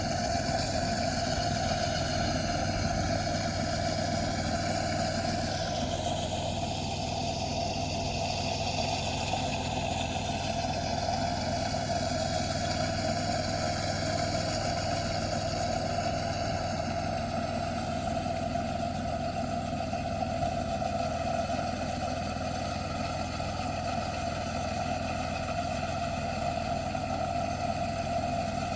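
An engine running steadily at a constant pitch, with no pauses or changes in speed.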